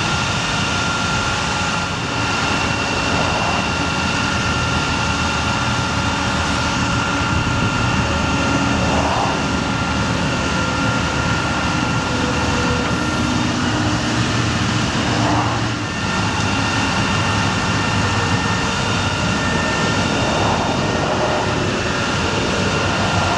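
2008 GMC C5500 bucket truck running steadily, an even engine drone with a steady high whine over it and a few brief shifts in pitch.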